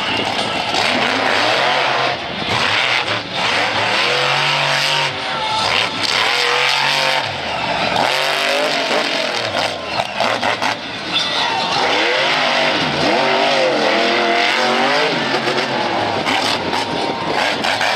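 Monster truck engine revving hard, its pitch climbing and dropping again and again in quick bursts over a steady wash of engine and arena noise.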